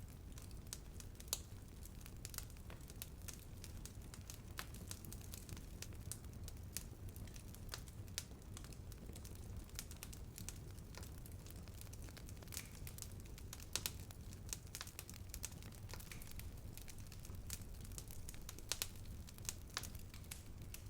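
Wood bonfire crackling: irregular sharp pops and snaps over a low, steady rumble of burning, with a few louder pops about a second in, around the middle and near the end.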